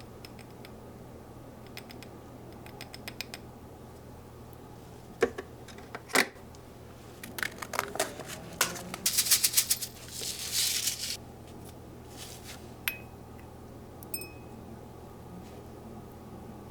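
Objects being handled: scattered light clicks, two sharp knocks about five and six seconds in, then a few seconds of rapid rattling and clattering, over a steady low hum.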